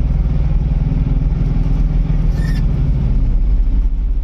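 Mahindra Jeeto mini truck's diesel engine running steadily while driving, heard from the cab, its pitch shifting slightly about three seconds in.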